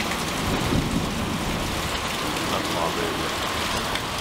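Heavy rain falling steadily in a thunderstorm, with a low rumble of thunder about half a second to a second in.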